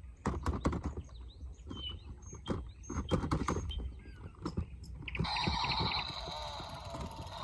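A run of irregular clicks and knocks, with a few short high chirps among them. About five seconds in, a steady hissing whirr starts.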